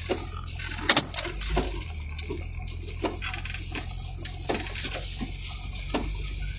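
Vehicle engine running with a steady low hum, heard from inside the cab, with scattered irregular clicks and ticks; a sharper click comes about a second in.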